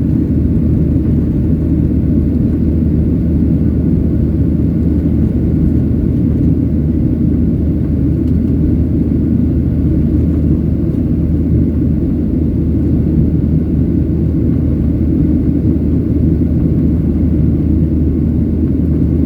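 Boeing 737-800 in its climb after takeoff: its CFM56 jet engines and the airflow make a steady, deep rumble that does not change.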